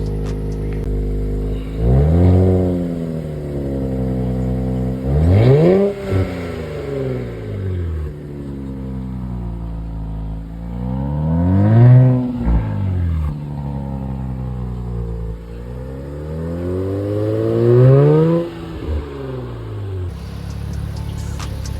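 2023 Nissan Z's 3.0-litre twin-turbo V6 idling and being revved four times, a few seconds apart. Each time the pitch climbs quickly and falls back to a steady idle.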